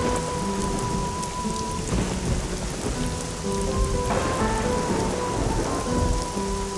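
Heavy rain falling steadily, with low rumbles of thunder, under soft background music of long held notes.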